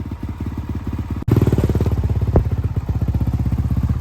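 Motocross race bikes running at speed, their engines giving a dense, rapid buzz of firing pulses. There is a brief break about a second in, after which the engines are louder.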